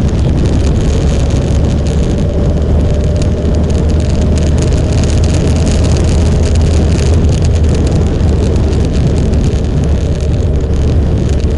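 Motorcycle engine running steadily under way, a continuous low drone with wind and road noise over it.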